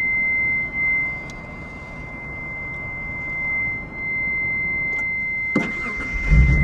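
A continuous high-pitched electronic tone, steady in pitch, like a car's warning buzzer, over a faint hum. Near the end there is a knock, then a low rumble.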